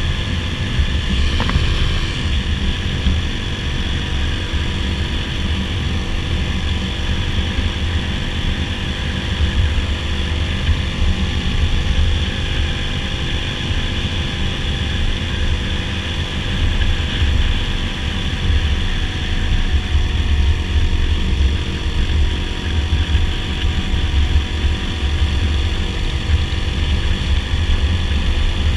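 Dirt bike engine running at a steady cruising speed, with a constant drone and a heavy, uneven rumble of wind buffeting the microphone.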